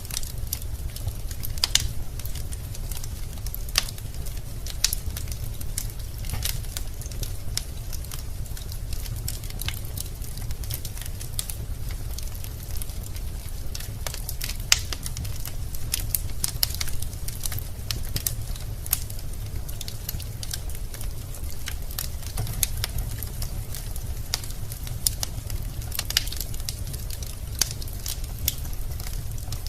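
Wood fire burning in a fireplace: a steady low rumble of the flames with irregular crackles and pops from the burning logs, several a second.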